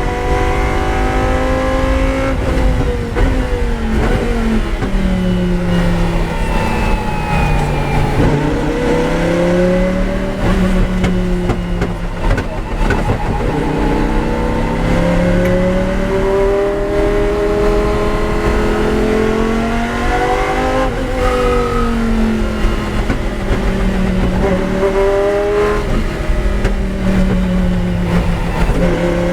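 Lamborghini Huracán GT race car's V10 engine at racing speed, its pitch repeatedly climbing under acceleration and dropping back under braking and shifts.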